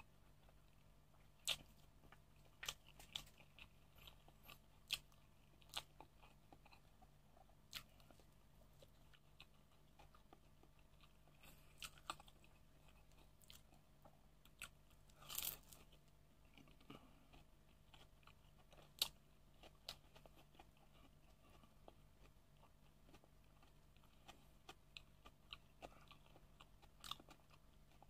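Close-miked eating: quiet chewing broken by scattered sharp crunches and mouth clicks. The longest crunch comes about halfway through, as a fried fish spring roll (lumpiang isda) is bitten.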